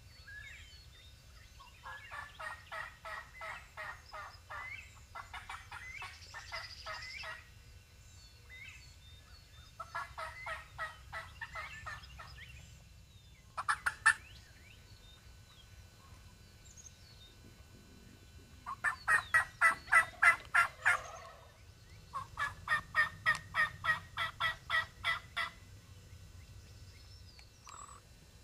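Wild turkey calling in five rattling series of rapid repeated notes, each lasting two to three seconds, with the loudest series about two-thirds of the way through. There is also one short sharp burst about halfway through.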